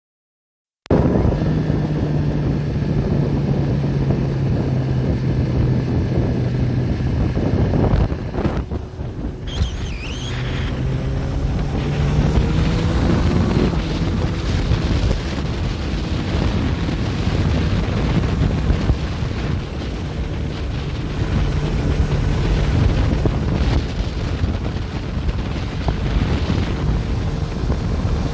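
Wind buffeting the microphone over a steady engine hum, as from a moving vehicle. It starts abruptly about a second in, and there are a few brief rising engine tones midway.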